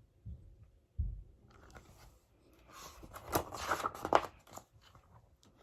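A book being handled and a page turned: two soft bumps, then a few seconds of rustling and scraping with several sharp clicks.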